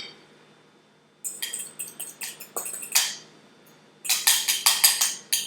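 A spoon clinking and scraping against a bowl while sauce is spooned over broccoli. The taps come in two runs of quick clinks after a short quiet start.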